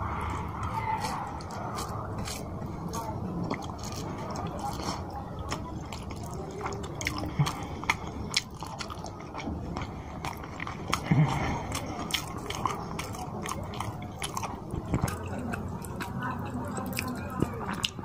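Close-miked chewing and wet mouth sounds of someone eating rice and fish curry by hand: a steady run of smacking clicks and squishes, with a few louder bites about 8 and 11 seconds in.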